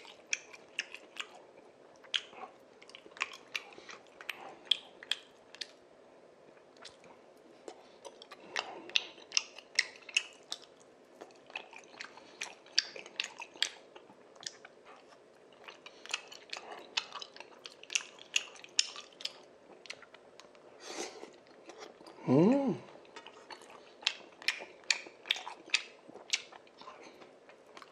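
Close-miked chewing of spicy tteokbokki rice cakes, with many small wet mouth clicks at an irregular pace. A short hummed voice sound comes about two-thirds of the way through.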